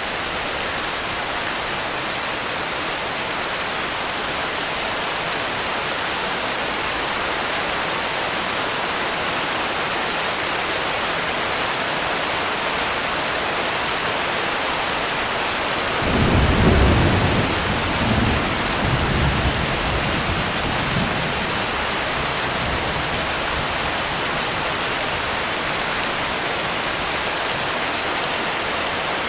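Steady heavy rain falling. About halfway through, a roll of thunder: a sudden low rumble that peaks at once, then rolls on in a few weaker swells for several seconds.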